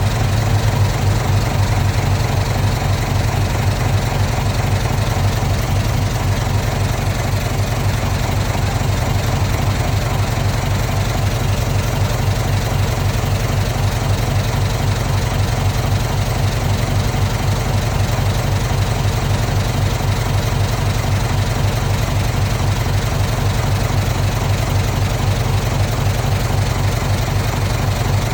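Heavy earthmoving machine's diesel engine running at a steady low drone, with no change in speed.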